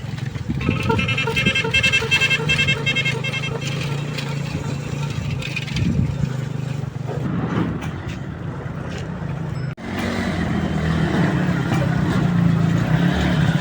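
Homemade mini jeep's Bajaj Kawasaki motorcycle engine running steadily. From about half a second in, a rapid pulsing beep sounds for about three seconds, and the engine is louder after a brief break near the end.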